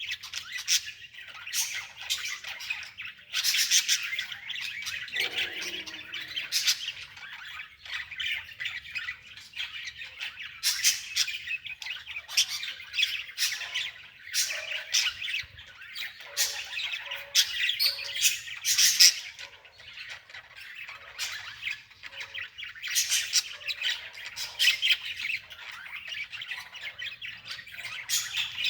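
Birds calling continuously in quick, overlapping chirps.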